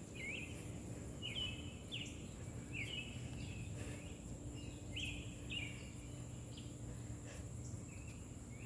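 Evening outdoor ambience: a bird chirping short notes over and over, about once or twice a second, over a steady high insect drone.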